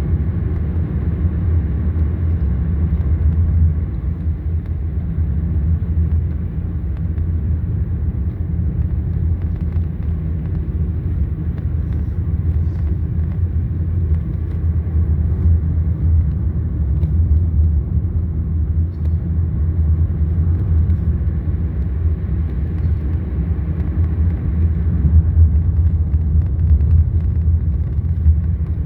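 A moving car giving a steady low rumble of engine and road noise.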